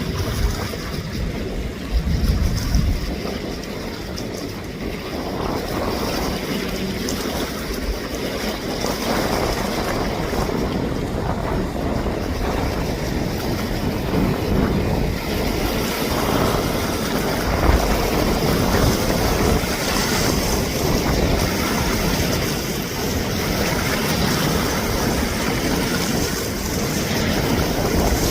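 Jet airliner engines making a steady rushing noise that slowly grows louder, with wind buffeting the microphone in low thumps.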